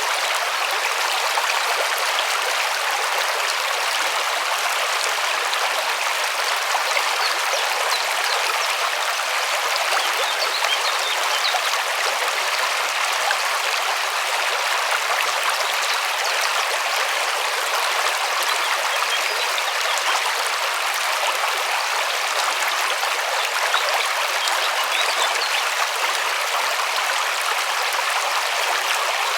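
River water rushing and splashing over stones, a steady, even rush with fine splashy detail.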